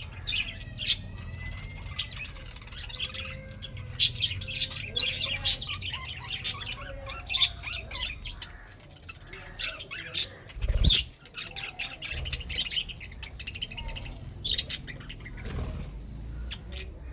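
A colony of budgerigars chattering, with many overlapping short chirps, squawks and warbles. A single low thump cuts in about two-thirds of the way through.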